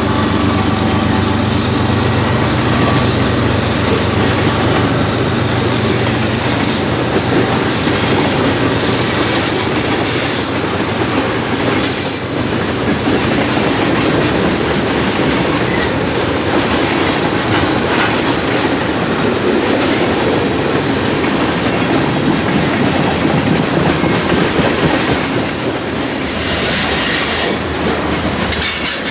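A train rolling past close by, its cars' wheels clattering steadily over the rails. A low engine hum shows in the first few seconds, and a high wheel squeal rises briefly about a third of the way in and again near the end.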